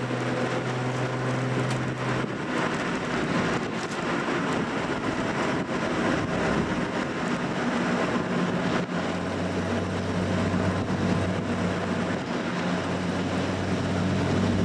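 Classic car's engine and exhaust while driving, over steady tyre and road noise. The engine note drops away about two seconds in and returns as a steady, lower note about nine seconds in.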